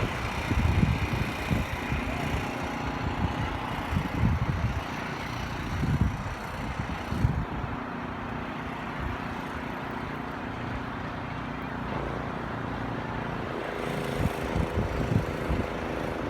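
City traffic noise: vehicles running steadily, with irregular low rumbles and a steady low engine hum through the middle.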